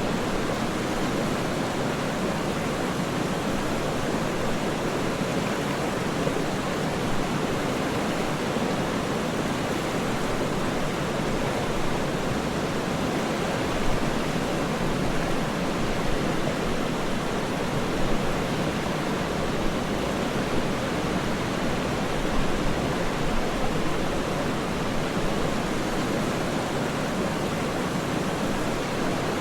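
Waterfall rushing steadily: an even, unbroken wash of falling water, full in the low and middle range, with no distinct splashes or other events.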